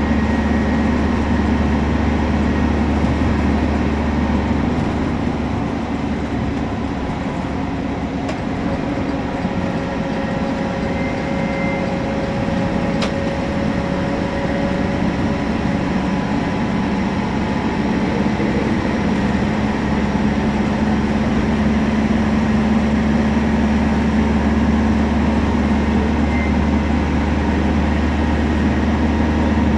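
Temsa Prestij SX midibus diesel engine running steadily under way, a deep hum that eases off for a few seconds and then builds again, with a faint whine in the middle.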